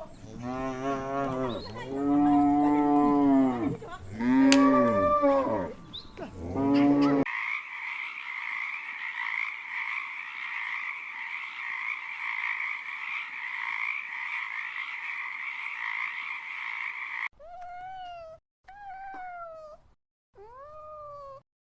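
Cattle mooing, a run of long, arching calls lasting about seven seconds. Then a steady chorus of frogs croaking for about ten seconds. Near the end come three short animal calls, each rising and then falling in pitch.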